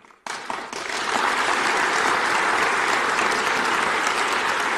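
Audience in a hall applauding: clapping breaks out suddenly, swells within about a second into dense, steady applause, and keeps going.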